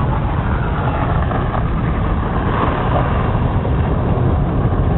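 Steady in-cabin rumble of a car driving on snowy roads: engine and tyre noise, strongest in the low end, with no breaks.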